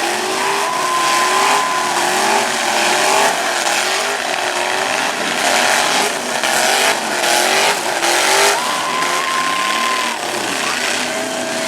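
Several demolition derby trucks' engines revving hard, their pitches rising and falling over one another, with two long, steady, high tones: one near the start and one around nine seconds in.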